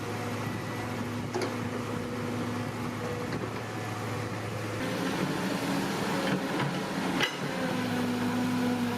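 Electric motors and gearboxes of an RC Huina toy excavator running with a steady whine, the pitch changing about halfway through as another function is worked. Two short clicks or knocks come in, one near the start and one near the end.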